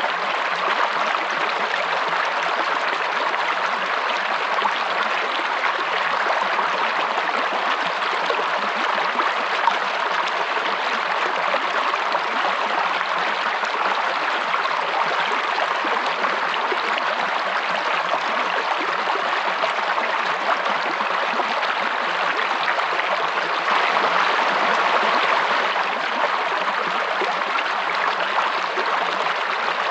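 Flowing water of a stream, a steady unbroken rush that grows a little louder for a couple of seconds near the end.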